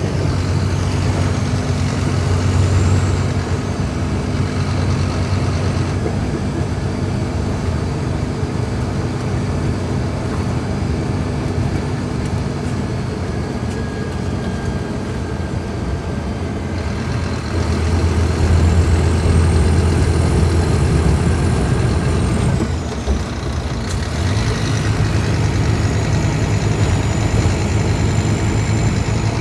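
Scania K310IB bus's diesel engine running steadily, getting louder about two-thirds of the way through, dropping briefly, then settling back to a steady run, with a faint high whistle rising and falling over it.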